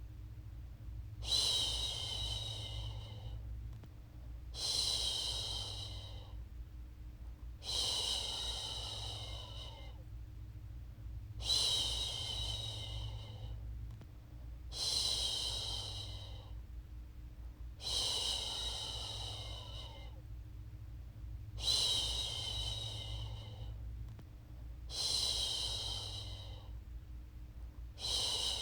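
A woman's voice shushing a baby to sleep, "shhh", in long hushes of about two seconds each, repeated about every three and a half seconds in a steady rhythm.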